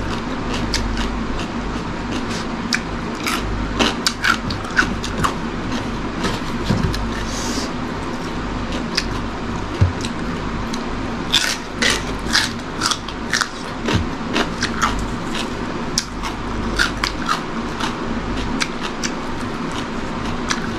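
Close-up eating sounds: crisp crunching and clicking of chewing raw cucumber and other food, in scattered bursts that come thickest in the middle. A steady low hum runs underneath.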